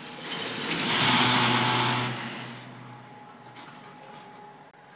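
Freight train of tank wagons rolling slowly past, with a high, steady metallic squeal from the wheels and a low rumble. The sound swells to its loudest about a second in and fades after about two and a half seconds.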